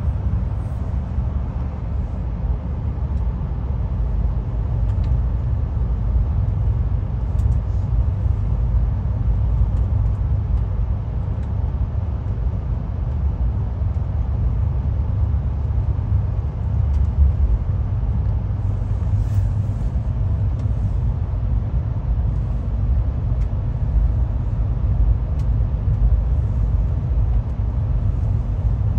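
Low, steady rumble of a passenger train running on the rails, heard from inside a dome car, with a few faint clicks.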